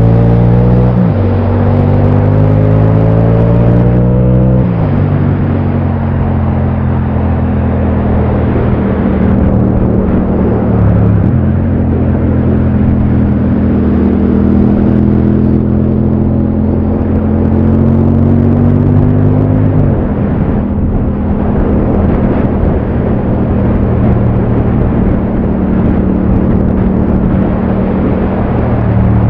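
Yamaha MT-07 parallel-twin engine pulling along the road, its pitch climbing steadily and then dropping sharply four times (about a second in, near 4 s, 11 s and 20 s), over a steady rush of wind and road noise.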